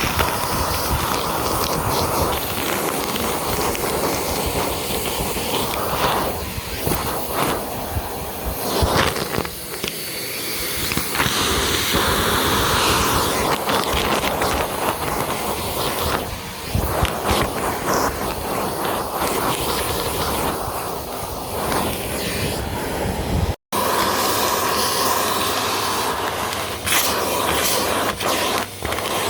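Vacuum cleaner running over carpet, with the motor noise rising and falling as it is pushed back and forth. There is a sudden cut about two-thirds of the way through, after which it carries on.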